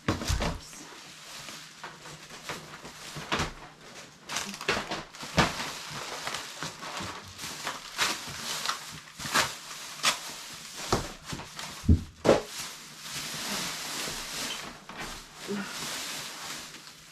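Plastic bags rustling and crinkling, with items knocking and clattering, in a rapid irregular run of sharp rustles and knocks as bags of discarded goods are rummaged through and sorted.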